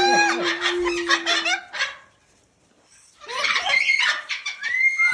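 Parrots chattering and calling in quick, pitch-gliding bursts, in two bouts with a short pause about two seconds in.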